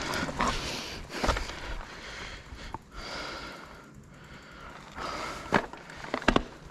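Downhill mountain bike rolling over a dirt trail: a steady rush of tyre and rattle noise, with a few sharp knocks as it hits bumps.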